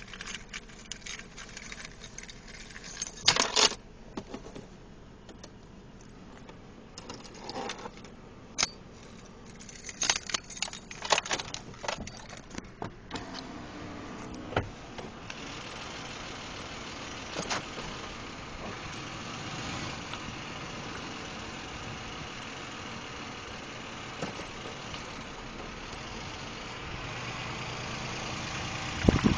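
Keys jangling and scattered clicks, then a car engine starts cold about halfway through and idles steadily, with the lifter noise that shows when the engine is cold.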